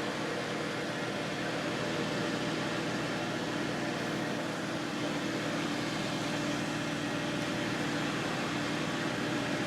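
Steady, even drone of an airplane's engines, with a faint constant hum under the noise.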